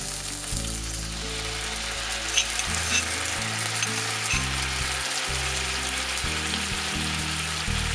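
Chicken breast sizzling in hot oil in a skillet as thinned miso sauce is poured in around it and starts to bubble, with a few sharp pops around the middle. Background music with bass notes plays underneath.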